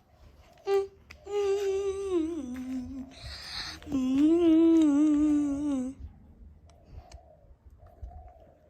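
A woman humming a tune in two long phrases, each sliding down in pitch at its end, with a short breathy hiss between them.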